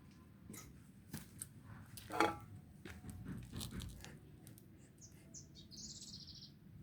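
Light clinks of cutlery against a plate, the loudest a ringing clink about two seconds in. Near the end comes a short high trilled bird chirp.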